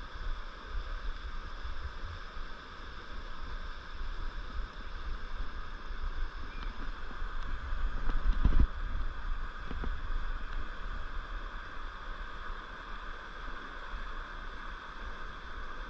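Mountain river rushing over rocks: a steady hiss of water, with a low rumble of wind or handling on the microphone and one louder low bump about eight and a half seconds in.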